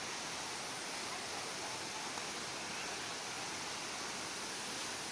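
Steady rushing of a waterfall about 45 m high pouring into a small pool below, an even hiss-like roar of falling water.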